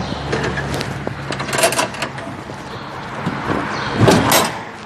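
A few knocks and clatters of handling, the loudest a double clunk about four seconds in.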